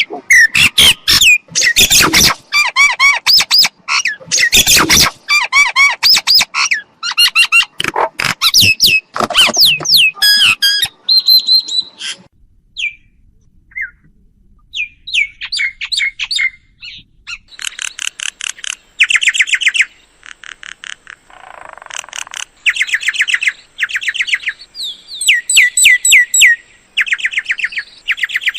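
Myna calling: loud harsh squawks mixed with whistled notes, a lull of a few seconds about halfway, then fast chattering runs of repeated high notes.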